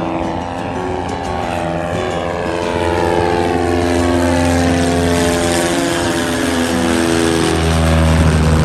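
Light propeller airplane taking off at full power, its engine growing louder as it comes closer. A falling sweep runs through the sound as it passes.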